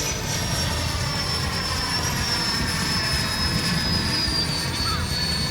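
80 mm electric ducted fan of an RC Kawasaki T-4 jet model in flight, a steady high whine that slowly falls in pitch, over a low rumbling noise.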